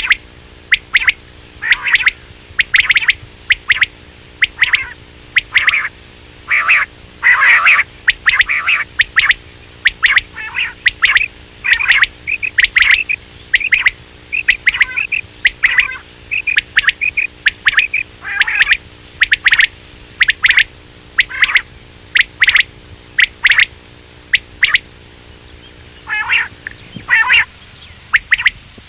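Quail calling in short, repeated calls, about two a second, as played from a lure recording to draw quail in. A faint steady hum runs underneath and stops near the end.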